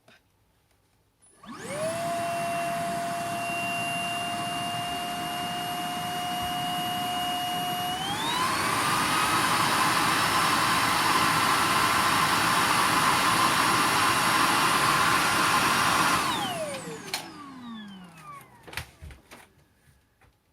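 Hitachi PV-BFH900 cordless stick vacuum's motor spinning up and running with a steady whine. About eight seconds in it steps up to a higher power setting, its whine rising in pitch and getting louder. Near the end it is switched off, and the whine falls away as the motor winds down.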